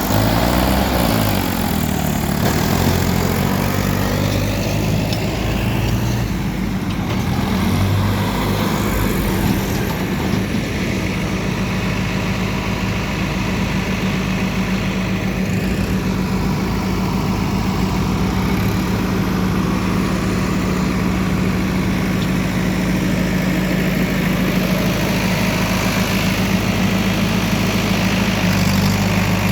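Heavy diesel engine of a construction machine or tractor running, its speed rising and falling in the first few seconds, then settling to a steady note.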